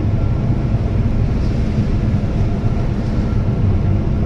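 Keihan Railway limited express train running at speed, heard from inside the front car: a steady low rumble from the train on the track.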